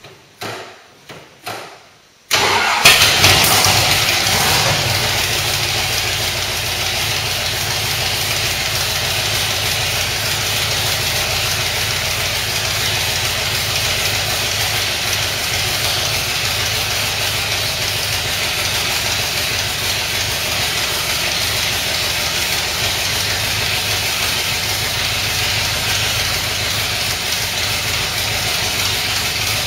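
Aluminum-block 482 side-oiler V8 with Weber carburetors starting for the first time: a few short bursts, then it catches about two seconds in and flares loudly. It settles within a few seconds into a steady idle.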